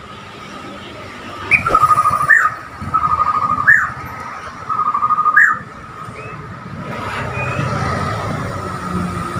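Bornean white-rumped shama singing three fast trilled phrases, each ending in a quick upward note, over a steady high tone. A low rumble builds near the end.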